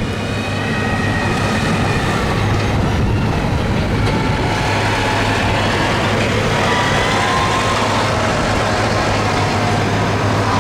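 Engine of a modified pulling lawn tractor running steadily, a loud constant drone with slight drifts in pitch.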